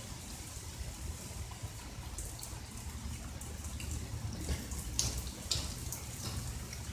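Light rain still falling after a thunderstorm, with scattered sharp drips and drops striking surfaces, several louder ones about four and a half to five and a half seconds in, over a steady low rumble.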